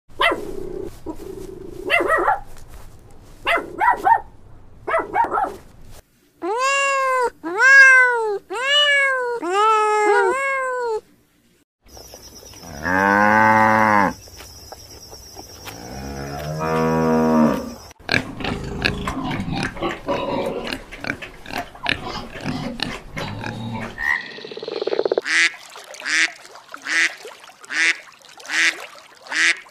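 A string of different animal calls: a small dog yapping, then a run of five rising-and-falling pitched calls, then a cow mooing twice in long low calls, and a mallard duck quacking steadily, about two quacks a second, near the end.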